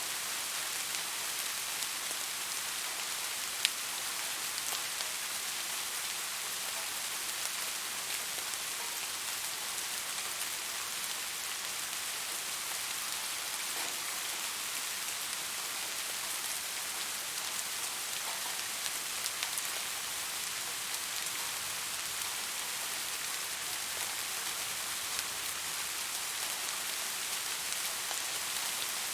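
Steady rain falling, an even hiss with scattered individual drops tapping, and one sharper tap about three and a half seconds in.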